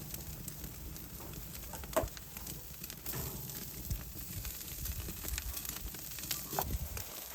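Food cooking: a steady sizzle with scattered crackles and small clicks.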